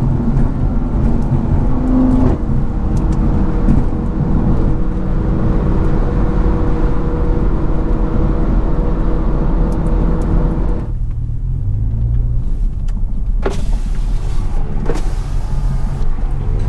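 Car engine and road noise heard from inside a moving car, a steady drone. About eleven seconds in, the high hiss drops away and a lower rumble remains, with two short spells of hiss near the end.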